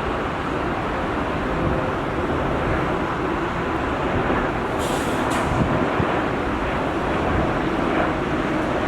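Steady rumble of jet aircraft engines, with two short hisses a little past halfway.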